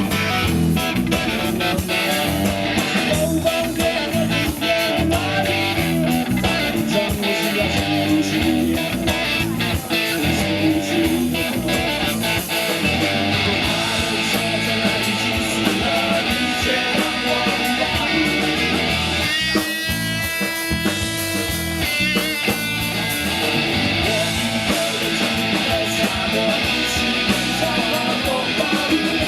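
Band playing an instrumental passage without singing, led by electric guitar over steady drums; about two-thirds of the way through, a run of high sliding notes stands out.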